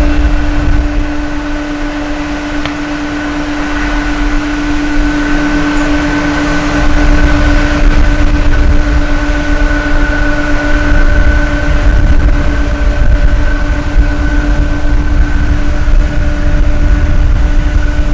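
Jet airliner engines running at a steady low power, a constant whine with no rise or fall, under heavy low wind rumble on the microphone.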